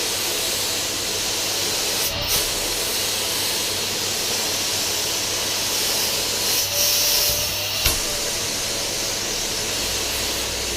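Bagged vacuum cleaner running with strong suction on a freshly fitted dust bag: a steady, loud hiss. It changes briefly about two seconds in and again around seven to eight seconds in.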